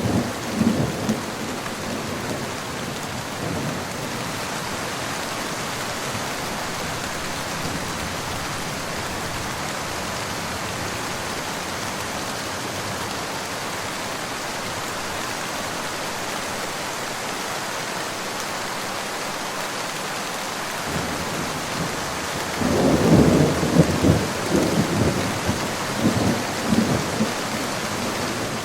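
Steady rain falling, with thunder rolling low right at the start and again more loudly about three-quarters of the way through, rumbling in uneven waves.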